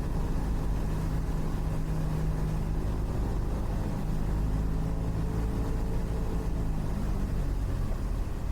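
Cessna 172's four-cylinder piston engine and propeller droning steadily, heard from inside the cockpit; the tone of the drone drops about seven seconds in.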